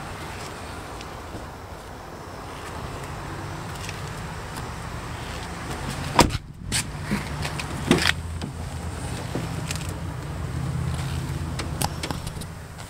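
A vehicle engine running steadily as a low hum, with two sharp knocks about six and eight seconds in, plus light handling clicks.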